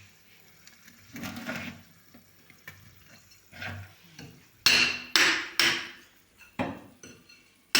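A series of sharp knocks and taps from hand work, with three loud knocks in quick succession a little past halfway and smaller taps after them.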